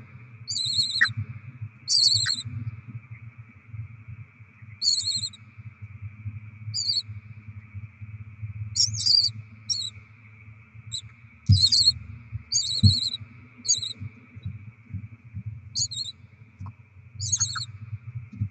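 Barn owl chicks in a nest box giving short, raspy hissing begging calls, about a dozen spaced irregularly, over a steady low hum.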